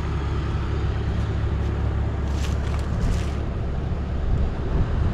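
Engine running steadily with a low rumble, with two short hissing sounds a little past the middle.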